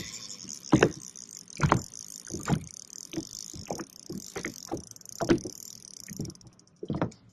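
Irregular knocks and thumps, roughly one a second, from handling gear on a boat while a hooked fish is being played. Under them is a steady high hiss that fades out about six seconds in.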